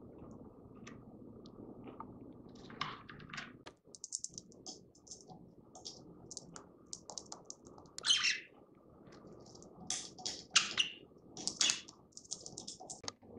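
Female budgerigar chirping in short, high bursts amid quick small clicks, with a few louder calls in the second half.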